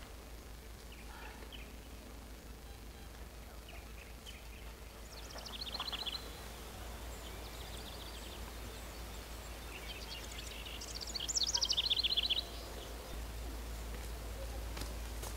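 A songbird singing two fast, high trilled phrases, one about five seconds in and a louder one near the end, over a steady low rumble.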